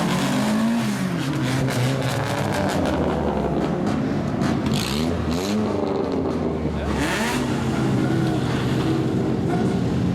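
Loud modified car exhaust, likely straight-piped, revving up and down in several throttle blips over the steady note of idling engines.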